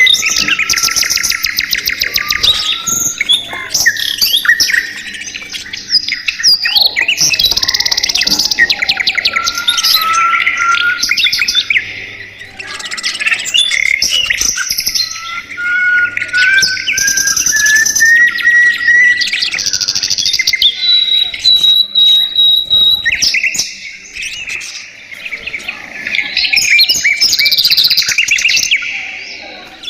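Budgerigars chattering and warbling: a continuous stream of fast, buzzy chirps and whistles, with some notes sliding upward in pitch.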